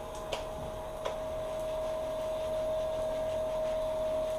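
Hands rubbing and lathering shampoo into a wet dog's fur, over a steady hum. Two light clicks come about a third of a second and a second in.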